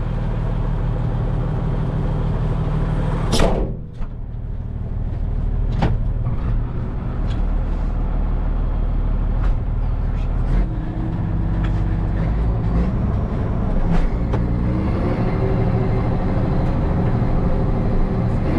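Case 2670 tractor's diesel engine running steadily, with one sharp slam about three seconds in, like the cab door being shut, after which the sound is more muffled. The engine's pitch climbs a little about two-thirds of the way through as it speeds up.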